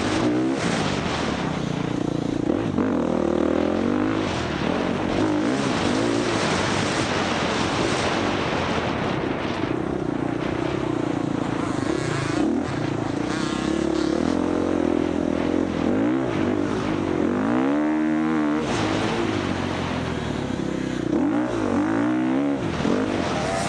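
Four-stroke dirt bike engine run hard during off-road race riding. Its pitch rises and falls constantly as the throttle is worked, with sharp revs up about three-quarters of the way through and again near the end.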